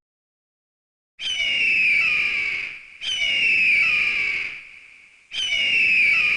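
Eagle calls: three repeated high cries, each falling in pitch and fading out, beginning about a second in after a short silence.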